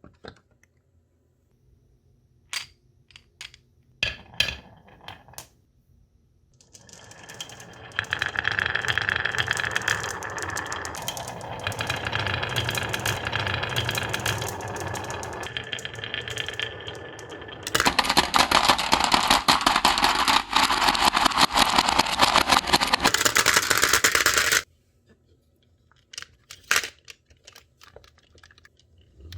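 Marbles running down a rain-gutter and wooden-rail marble run: a few separate clicks, then a steady rolling rumble that builds from about seven seconds in. About eighteen seconds in it becomes a louder, denser rattle, which stops abruptly about twenty-five seconds in, followed by a couple of clicks.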